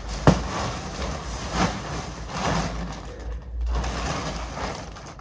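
Shopping haul being unpacked by hand: irregular rustling and crinkling of packaging, with a sharp knock about a third of a second in.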